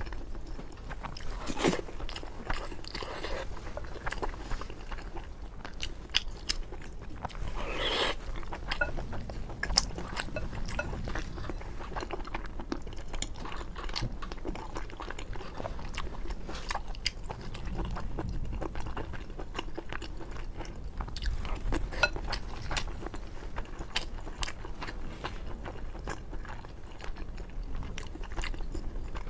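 Close-up eating sounds: a person chewing and biting mouthfuls of braised pork belly and rice, with many small wet clicks and smacks throughout.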